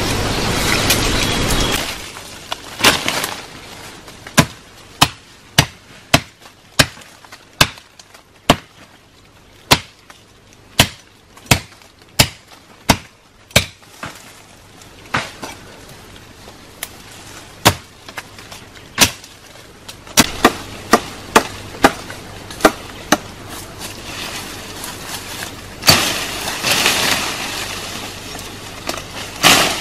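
Repeated sharp strikes of a tool on wood, roughly one to two a second for about twenty seconds, as in chopping or hammering timber. A steady rushing noise fills the first two seconds and returns near the end.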